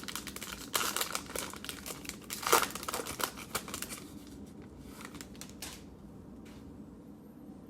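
Cellophane wrapper of a trading-card pack crinkling and tearing as it is opened, loudest about two and a half seconds in, thinning to a few small crackles after about four seconds.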